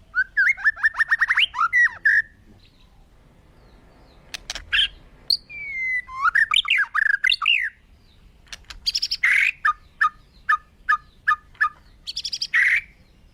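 Bird calls: quick chattering phrases that slide up and down in pitch, then in the second half a run of about eight short, evenly spaced notes, with a harsher call just before and near the end of the run.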